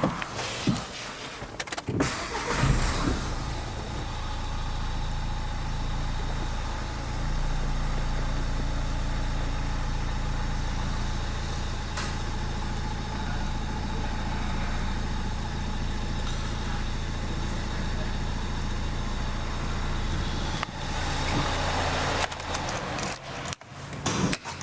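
Nissan Juke engine cranked and started about two seconds in, then idling steadily. The idle settles a little lower after a few seconds. The engine stops near the end.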